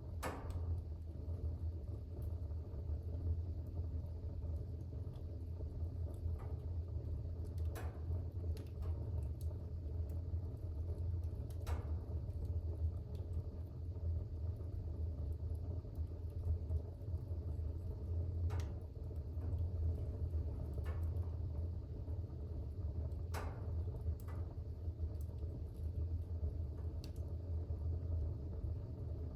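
Fire burning in a fireplace: a steady low rumble of the flames with a sharp crackle or pop now and then.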